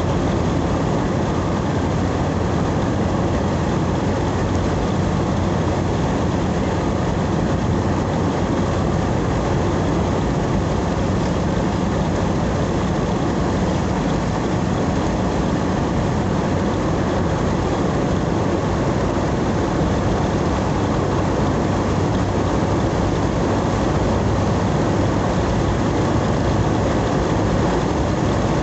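Steady engine drone and road noise of a vehicle driving.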